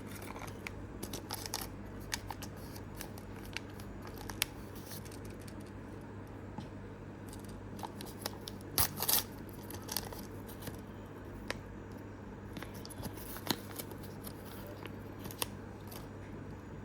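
Small scattered clicks, snips and crinkles of miniature plastic toys and blind-bag packaging being handled, with a brief flurry of louder clicks about halfway through, over a steady low hum.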